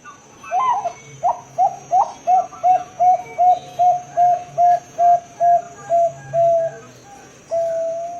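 Zebra dove (perkutut, Bangkok type) cooing: an opening phrase, then a run of about fourteen short coos at one pitch, evenly spaced, ending in one longer held note near the end.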